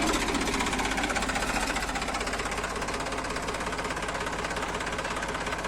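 Tractor diesel engine running steadily with an even, rapid knocking rhythm.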